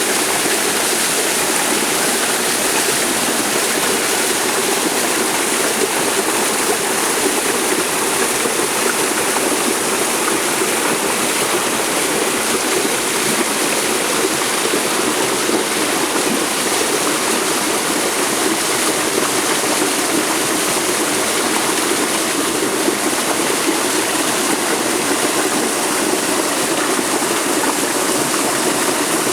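Steady rush of running water, as from a stream or small waterfall, even and unbroken throughout.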